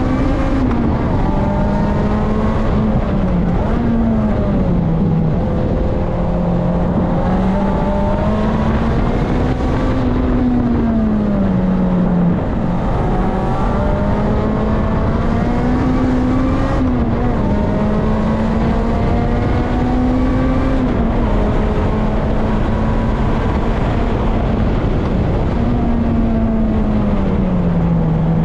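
Supercharged Toyota 2ZZ-GE four-cylinder of a 2005 Lotus Elise heard from inside the cabin at speed on track. Its pitch climbs under throttle and drops sharply several times, over a steady rumble of road and tyre noise.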